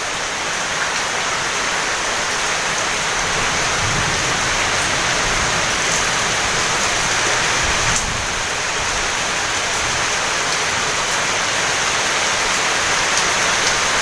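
Heavy rain pouring steadily, a dense even hiss, with a few sharper drop hits standing out.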